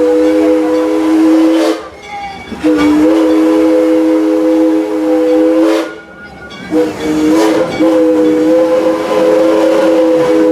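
An ALCO-built steam locomotive's chime whistle blowing long blasts: a steady multi-note chord, breaking off about two seconds in and again about six seconds in, then sounding again past the end.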